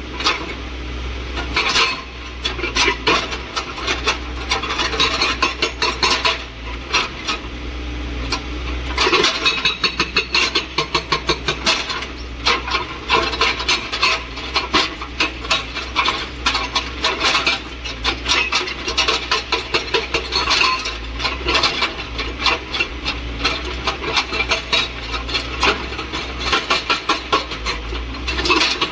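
JCB excavator's hydraulic breaker hammering, rapid blows coming in bursts, over the steady low drone of the machine's engine.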